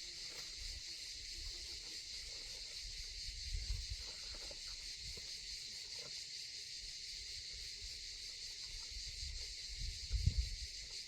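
Steady high-pitched chirring of summer insects in a forest. Two short low rumbles, about three seconds in and near the end, sit beneath it.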